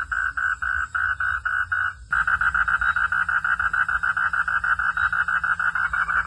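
A night chorus of calling animals: a steady, rhythmic pulsing call repeating about five times a second. After an abrupt cut about two seconds in, it becomes louder and faster, about eight pulses a second.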